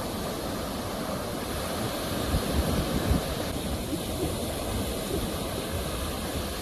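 Ocean surf: a steady wash of breaking waves with a deep rumble, swelling louder for about a second between two and three seconds in.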